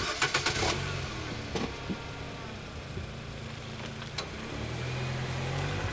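A few clicks and rattles at the start, then a car engine running steadily, growing louder about four and a half seconds in.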